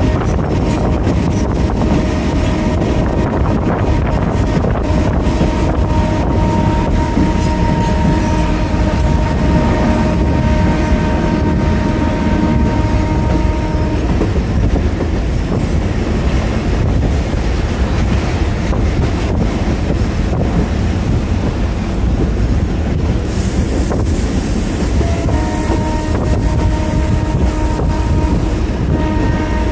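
Train running loudly along the track with a steady rumble, its horn sounding one long held tone for about the first half and starting again near the end. A brief hiss rises over the rumble shortly before the horn returns.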